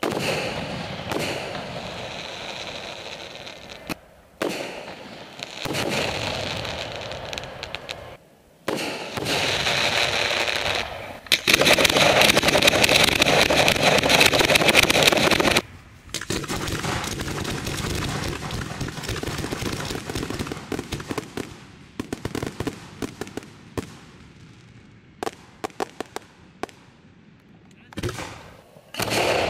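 Fireworks show: long stretches of dense crackling and rumbling, loudest in the middle, then a run of sharp separate bangs near the end. The sound changes abruptly several times.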